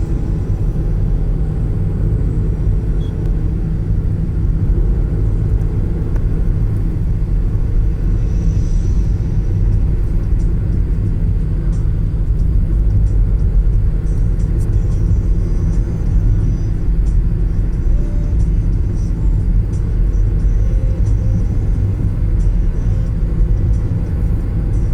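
Steady low rumble of a running motor vehicle, unchanging throughout, with faint light ticks scattered over the second half.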